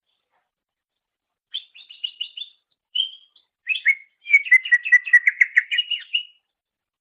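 Cucak ijo, a Chloropsis leafbird, singing. A quick series of high chirps comes in about a second and a half in, then a fast, loud trill of repeated notes that stops near the end.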